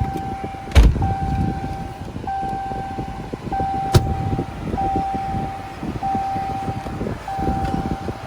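An electronic warning beep repeating about once a second, each beep nearly a second long with a short gap, over vehicle and road noise. A sharp knock about a second in, and a lighter one about four seconds in.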